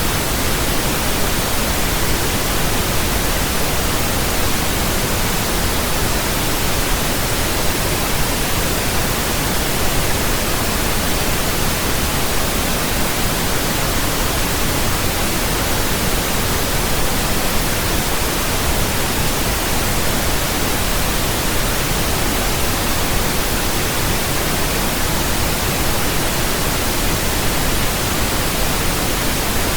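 Steady pink noise: an even, unchanging hiss with a deeper rumble than white noise.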